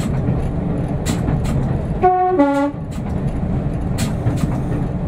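Diesel multiple unit's two-tone horn sounds about two seconds in, a short higher note followed by a lower one. Under it runs the steady rumble of the train under way.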